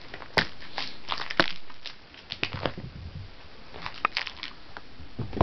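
Ragdoll kitten scampering and pouncing after a toy mouse on a string: scattered taps, scuffs and scratches of paws and claws, coming in short clusters.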